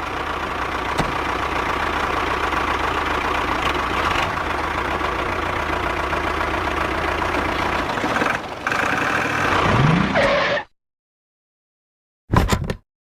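Engine running steadily, then cut off abruptly about ten and a half seconds in. A short, sharp sound follows near the end.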